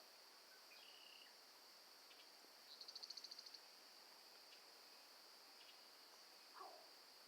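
Faint, steady, high-pitched drone of a chorus of night insects such as crickets. About three seconds in, a rapid pulsing trill lasts under a second. Near the end comes one short call that slides downward in pitch; the same call came just before this.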